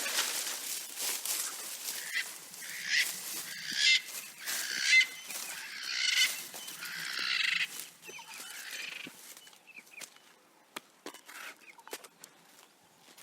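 An animal calling repeatedly, a run of several loud calls that die away after about eight seconds, leaving faint scattered clicks.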